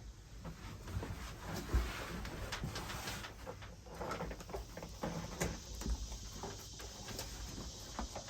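Irregular light knocks, scuffs and rustles of hands pressing and rubbing down adhesive-backed Bedrug liner pieces in a truck bed.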